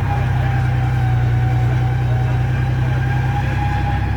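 Mega truck's engine running steadily as it drives, a loud even drone with a thin steady whine above it, heard from inside the cab.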